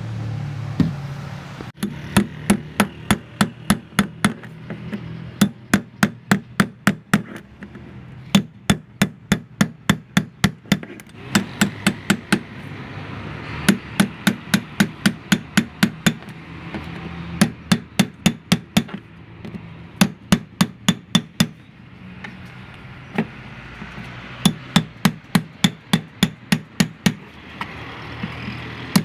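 Hammer blows in quick runs of several strikes, about four a second, with short pauses between runs.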